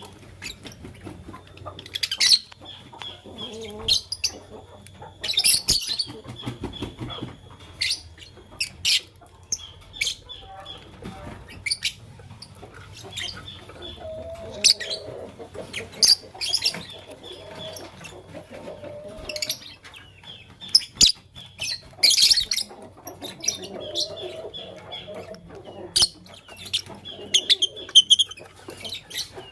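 Lovebirds chirping: many short, sharp, shrill chirps coming irregularly throughout.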